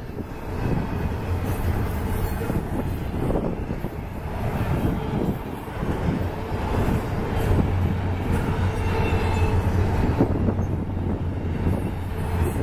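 Double-stack container well cars of a freight train rolling past at speed: a steady rumble and clatter of steel wheels on the rails.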